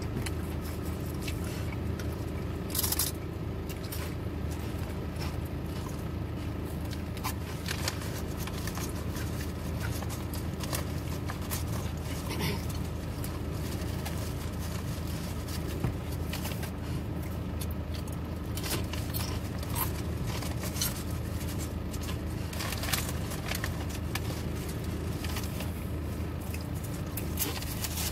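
Close-up eating sounds: biting and chewing a sandwich, with scattered short mouth clicks, over a steady low hum in a car's cabin.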